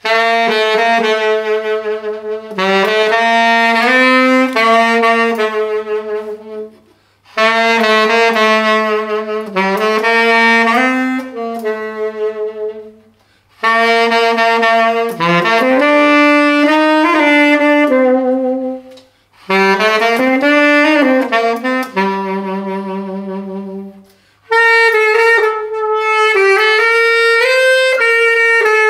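Amati Super Classic saxophone playing a slow solo melody with vibrato, in five phrases separated by short breath pauses.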